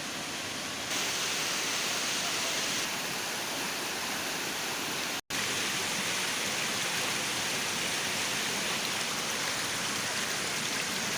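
Steady rush of flowing water, cut to silence for an instant about five seconds in.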